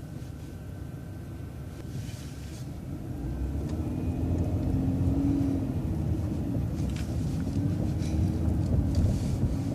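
Bus engine and drivetrain pulling away, a low rumble growing steadily louder. A low drone rises in pitch twice as the bus picks up speed.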